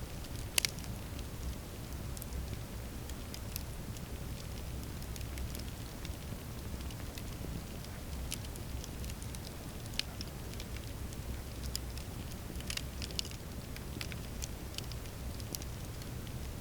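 Campfire burning with a steady low rumble and scattered crackles and pops; the sharpest pop comes about half a second in, another about ten seconds in, and a quick cluster of crackles near thirteen seconds.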